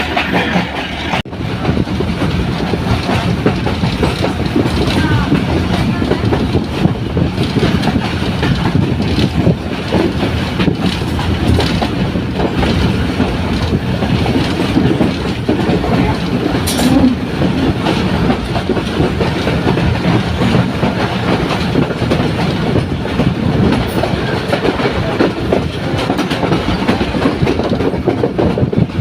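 Train running along the rails, a continuous loud rumble and clatter of wheels and carriages, with a brief dropout about a second in.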